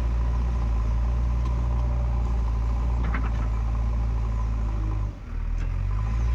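Heavy diesel engine running steadily at work, with a short squeak about three seconds in and a brief dip in the engine sound a little after five seconds.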